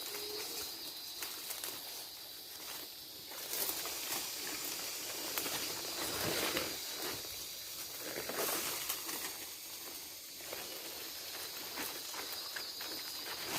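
Footsteps rustling through jungle leaf litter and undergrowth, coming in uneven swells, over a steady high buzz of forest insects.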